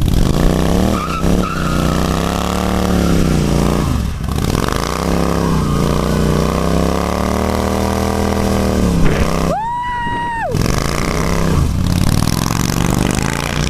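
Motorcycle engine revving hard in repeated rising and falling sweeps during a burnout, the front brake held while the rear tyre spins on the pavement. About ten seconds in there is a brief, higher-pitched whine that rises, holds and drops away.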